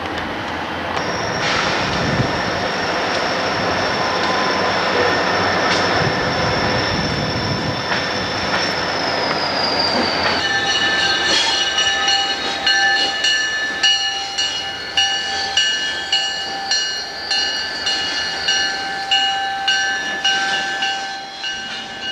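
A freight train rolling past, its wheels giving a high, steady squeal that dips slightly in pitch about ten seconds in. From then on the squeal goes on in several tones under a regular clickety-clack as the cars cross rail joints.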